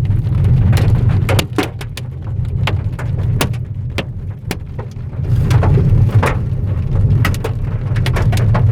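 Large hailstones striking the car's body and glass in irregular sharp knocks, several a second, heard from inside the cabin over the steady low rumble of the car driving.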